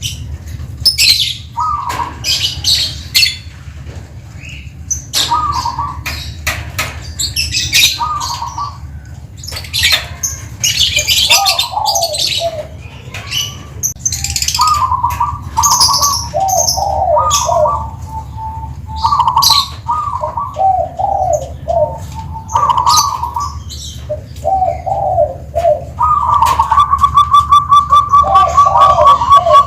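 Zebra dove (perkutut) cooing in repeated short rhythmic phrases. Near the end comes a longer, fast-pulsed rolling coo. Sharper high chirps of other small birds sound over it.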